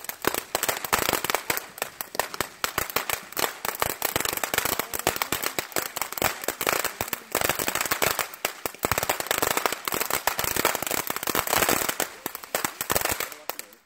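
Firecrackers popping in rapid, uneven succession, many cracks a second with no let-up, then stopping abruptly just before the end.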